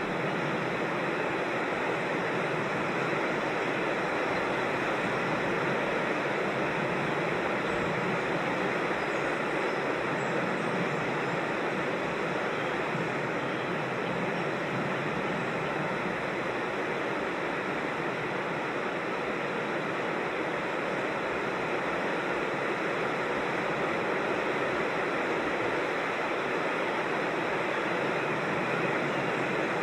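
Creek water rushing over rocks in small cascades, a steady, even rush that does not change.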